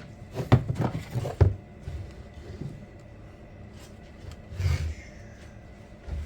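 Knocks and scrapes of a file guide being handled and worked on a chainsaw chain during sharpening: a quick cluster in the first second and a half, and another scrape near five seconds.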